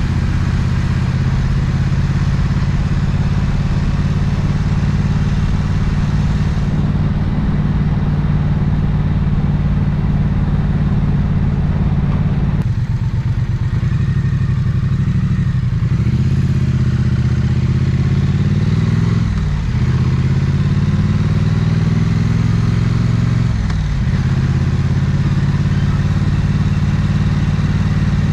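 Triumph 900cc parallel-twin engine running at a steady low speed. About halfway through it pulls away, its revs rising three times with a short drop at each upshift, then it settles into a steady run.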